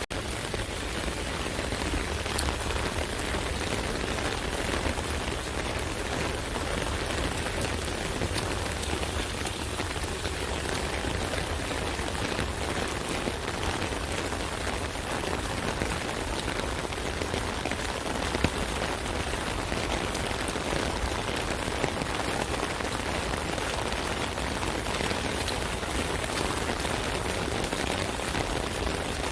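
Steady rain falling on an umbrella canopy, an even wash of drops with scattered sharper hits from single drops.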